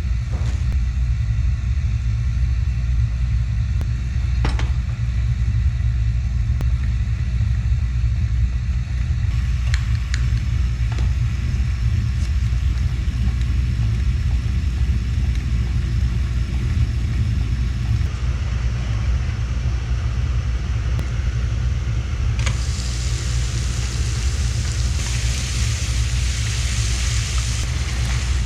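A steady low rumble, like a motor or engine running, with a few sharp knocks; a hiss joins in over the last several seconds.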